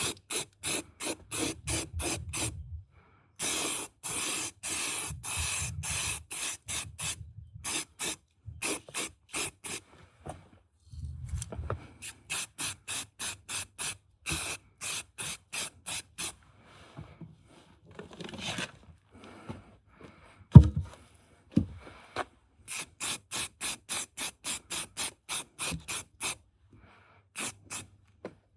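Hand tool worked back and forth over a car part in quick scraping strokes, about three to four a second, in runs with short pauses. A single sharp knock about two-thirds of the way through is the loudest sound.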